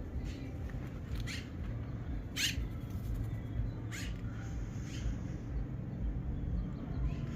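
A bird giving short, sharp high calls, about five of them a second or so apart, over a low steady rumble.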